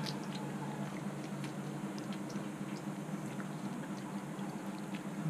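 Faint small clicks and crackles of a crisp fried tarantula being chewed and picked apart by hand, over a steady low hum.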